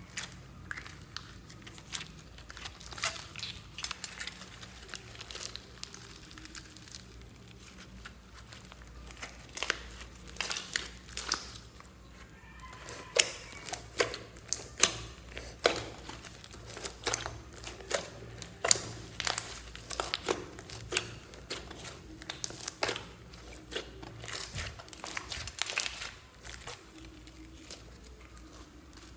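Slime being squished and stretched by hand, giving irregular sharp clicks and pops as air pockets burst, thickest through the middle of the stretch.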